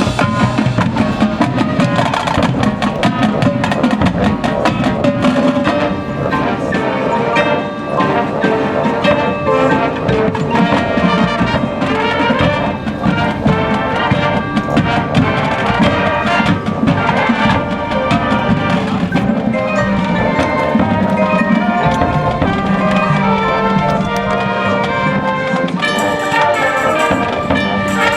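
High school marching band playing its field show: brass melody over marching percussion and mallet keyboards.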